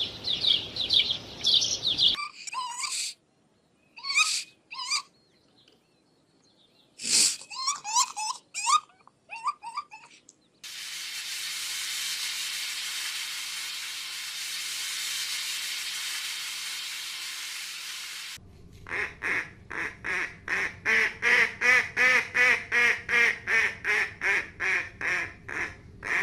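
Farm birds calling across several cuts: high chirping first, then scattered calls. After that comes a steady hiss lasting about eight seconds. Near the end there is a fast, even run of repeated calls, about three a second.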